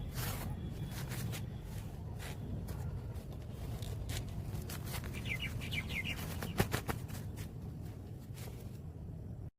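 A bird chirping, a quick run of about six short notes about five seconds in, over a steady low rumble with scattered clicks and rustles.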